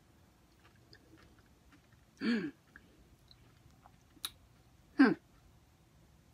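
A person chewing soft dragon fruit with faint wet mouth clicks, broken by two short vocal sounds about two and five seconds in, the second falling in pitch, and a sharp click just before the second.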